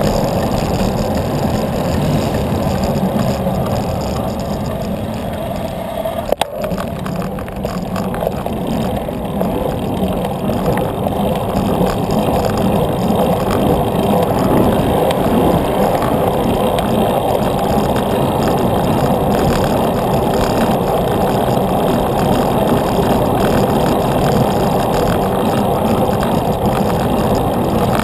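Steady rumbling wind and road noise on a camera carried along on a moving bicycle, with one sharp click about six seconds in.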